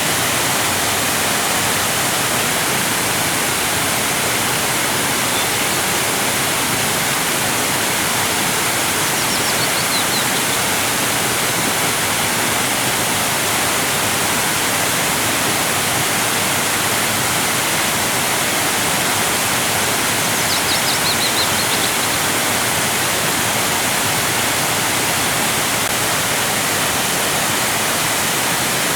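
Waterfall: a steady, even rush of cascading water, with two brief faint high chirps about nine and twenty-one seconds in.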